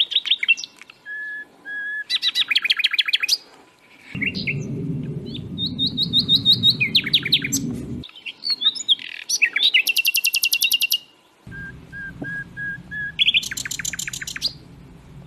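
Songbirds singing: fast rattling trills repeated many times a second, mixed with short steady whistled notes. A low rumbling noise comes in from about four to eight seconds and again near the end.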